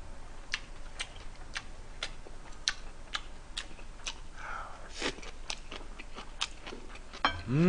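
A man chewing a mouthful of kimchi close to the microphone: scattered wet clicks and smacks of the mouth. A short voiced hum comes near the end.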